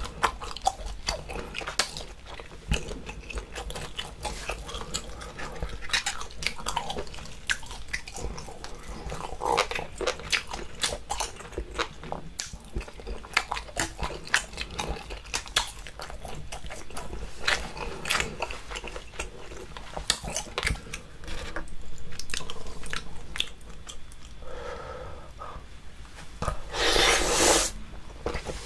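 Close-miked wet chewing of spicy boiled seafood, octopus and scallops, with many small sticky clicks and squelches. A louder slurp comes near the end.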